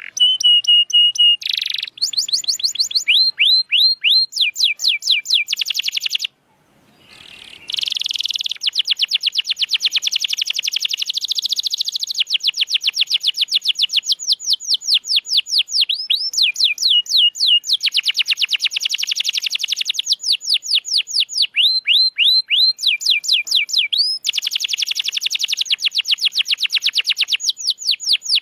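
Domestic canary singing in its typical phrases: runs of repeated sweeping chirps alternating with long, fast rolls. There is a short break about six seconds in.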